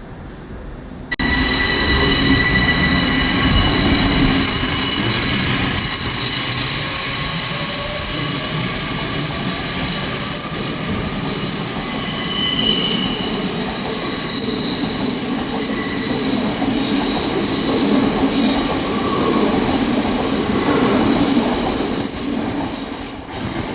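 Wheels of a double Great Western Railway Class 800 IET squealing as the train moves along the station tracks, with several high, steady squeal tones over a low rolling rumble. The sound starts suddenly about a second in and falls away near the end.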